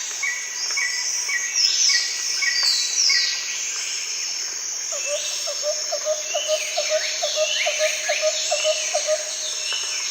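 Tropical rainforest chorus of insects and birds: a steady high insect drone with repeated short chirps and falling whistled calls over it. A row of quick, lower pulsing notes runs from about five to nine seconds in.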